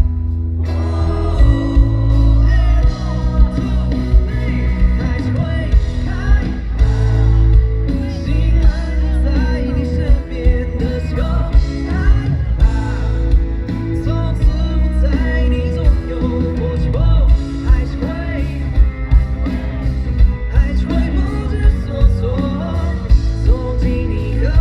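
Live pop band playing with a large crowd singing the chorus along loudly over a steady beat.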